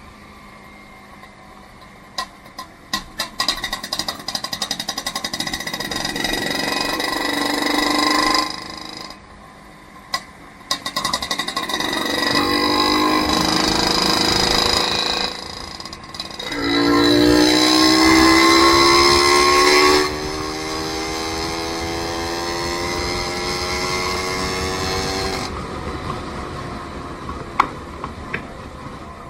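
A vehicle engine pulling away and accelerating through the gears. A rapid pulsing gives way to a rising note that drops off abruptly at each shift, several times. It is loudest in the middle and eases to a steady run near the end.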